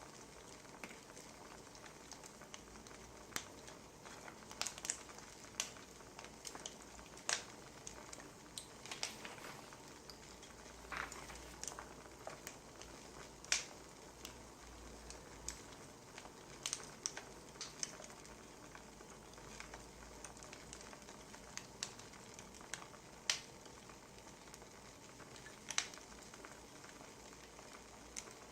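Burning firewood crackling: irregular sharp pops and snaps, a few louder than the rest, over a soft steady hiss.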